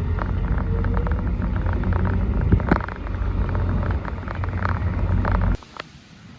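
Bicycle rolling along a rough path: a steady rumble from the tyres and wind with many small rattles and clicks, which cuts off suddenly near the end.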